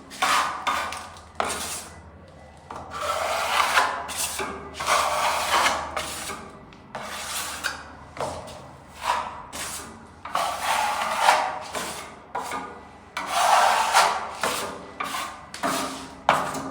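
A hand tool rubbing over a surface in repeated, irregular strokes, roughly one a second, as in paint-repair surface preparation.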